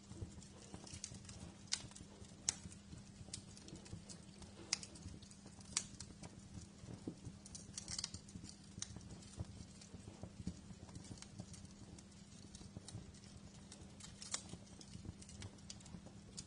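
Wood fire crackling in a fireplace: irregular sharp pops and snaps, a dense flurry about halfway through, over a steady low hum.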